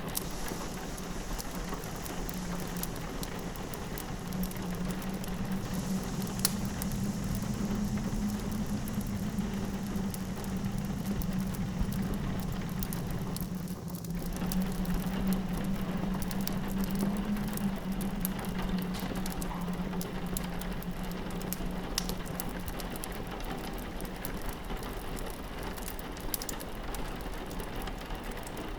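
Rain pattering steadily on a window, with a fireplace crackling in scattered sharp pops and a low, steady wind howl underneath.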